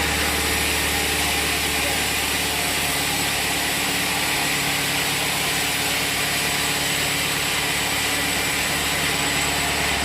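Sawmill machinery running steadily: an even engine hum with a constant hiss above it and no change in load.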